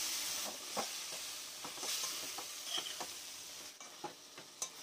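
Chicken sizzling in a metal kadai after a splash of water is poured in, the sizzle slowly dying down. A spatula scrapes and taps against the pan a few times as it is stirred.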